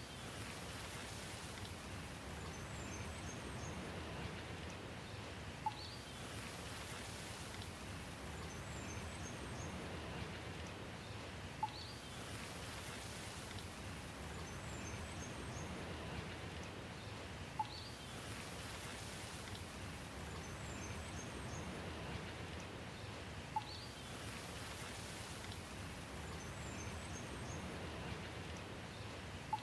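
Steady rain with faint, high bird chirps. A brief sharp tick comes about every six seconds, in an evenly repeating pattern.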